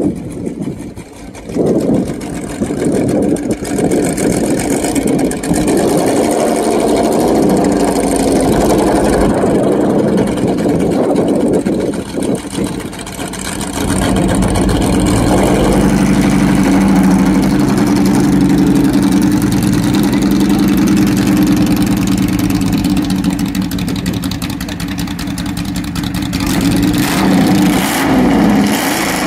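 Jaguar XJ13's quad-cam, fuel-injected five-litre V12 running at low speed, settling into a steady idle from about halfway through.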